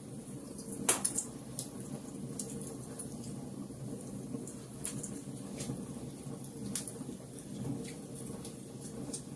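Wood fire crackling in a fireplace: a steady low rumble of the flames with scattered sharp pops and snaps, the loudest few about a second in.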